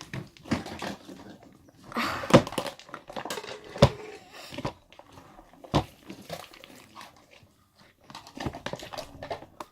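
Slime being mixed by hand in a plastic container: irregular sticky squelching and crinkling, with a few sharp clicks.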